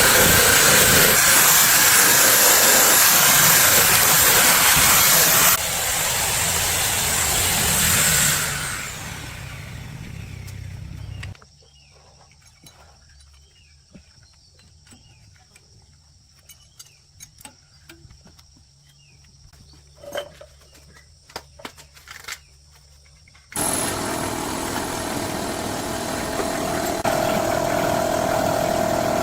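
Workshop power tools running loud and steady, one winding down with a falling pitch, then a quiet stretch of scattered light clicks and taps before a steady machine sound with a held tone starts suddenly.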